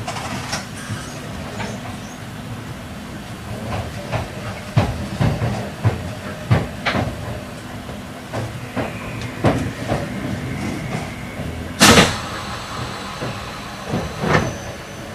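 Running sound of an E8 series Shinkansen train heard from inside the car as it slows toward a station stop: a steady low rumble with irregular clunks from the wheels over the track, the loudest about twelve seconds in.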